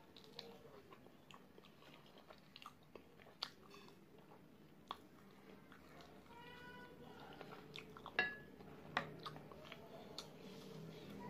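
Close-up wet chewing, biting and finger-licking of sticky, sauce-covered fried chicken wings, a string of soft smacks and clicks. About six and a half seconds in, a high wavering call sounds in the background.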